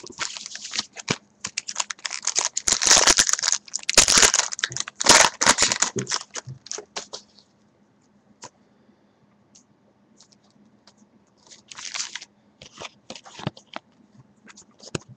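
A trading card pack wrapper being torn open and crinkled by hand, with a run of crackling rustles in the first half, a quiet pause, then a few more short crinkles near the end.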